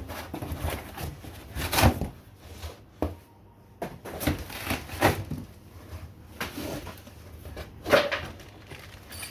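Chainsaw packaging being opened and handled: cardboard and plastic rustling and scraping, with several sharp knocks and crinkles, the loudest about two seconds in and again near eight seconds.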